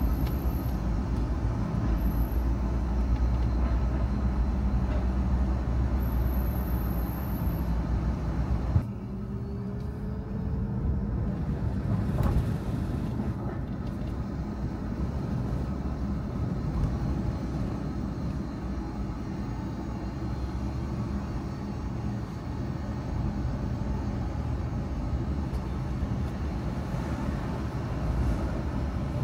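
Car on the move: a steady low engine and road rumble. About nine seconds in the low rumble drops suddenly, a faint rising whine follows over the next few seconds, and there is a single click a little later.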